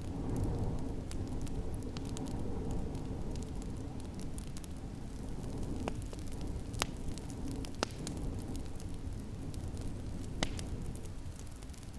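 Wood fire crackling in a fireplace, with many small clicks and a few sharper pops, over a steady low rush of wind.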